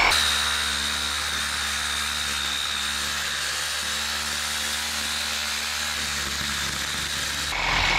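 Handheld power drill running steadily with a high whine, louder for a moment as it starts, then swelling again just before it stops near the end.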